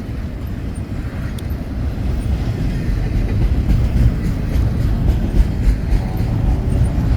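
Double-stack container freight train rolling past, its wheels on the rail making a steady low rumble that grows slowly louder.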